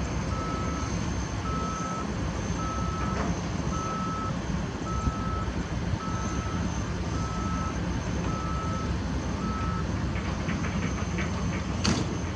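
A heavy construction machine's backup alarm beeps steadily, about once a second, over the low rumble of diesel engines; the beeping stops about ten seconds in. A few metallic knocks follow, then one sharp bang near the end, the loudest sound.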